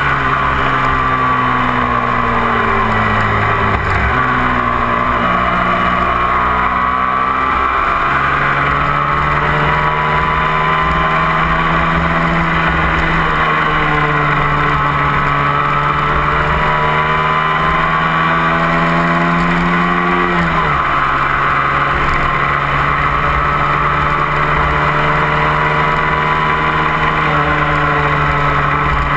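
Twin-cylinder 250 cc sport motorcycle engine pulling steadily uphill, heard from the bike itself with wind noise, its revs rising slowly before dropping suddenly about two-thirds of the way through as it shifts up.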